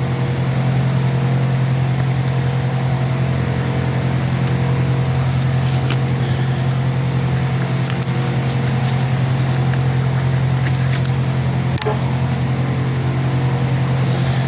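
Steady low machine hum with several even tones above it, unchanging throughout, with a few faint clicks, one about six seconds in and one near twelve seconds.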